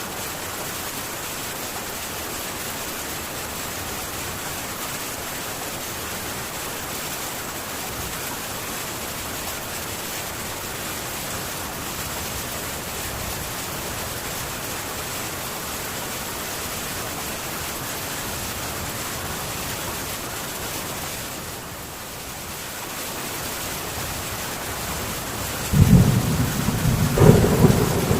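Heavy rain falling steadily on a metal tin roof, an even hiss. Near the end a loud, low rumble of thunder breaks in suddenly and carries on.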